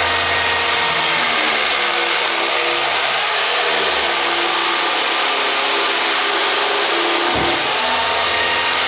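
Electric power tool running continuously against concrete, its motor briefly bogging down under load about seven seconds in and then recovering.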